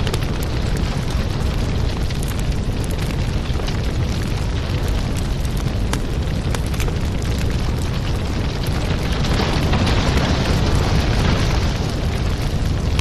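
Fireplace fire crackling: a steady low rumbling hiss with frequent sharp pops, swelling louder for a few seconds near the end.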